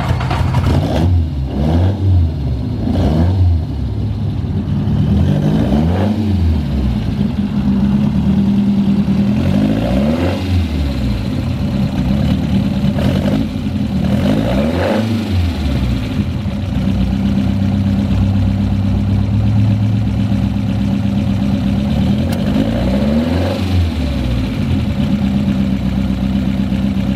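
1966 Lotus Cortina Mark I race car's twin-cam four-cylinder engine running, revved in short throttle blips again and again, several in quick succession at the start, with steady idling in between.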